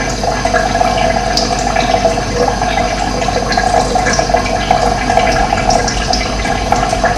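Steady rush of running water, with short high chirps here and there, likely small birds.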